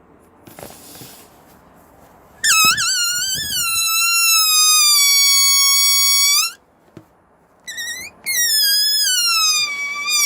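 Air escaping from a rubber balloon through its neck, held stretched tight, making a loud high-pitched squeal. The squeal wavers at first, then slides down and holds a steady note before cutting off abruptly. After two short chirps a second squeal starts and slowly falls in pitch.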